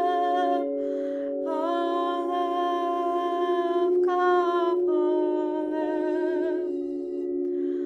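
A woman's voice singing long, sustained wordless tones that shift pitch a few times, over a steady drone. There are breaths between phrases about a second in and near the end.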